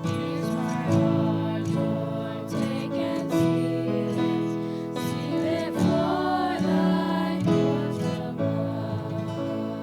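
Music: a strummed acoustic guitar with held chords.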